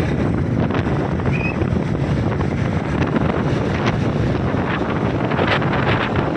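Loud wind buffeting the microphone while travelling along a road, with vehicle road noise underneath.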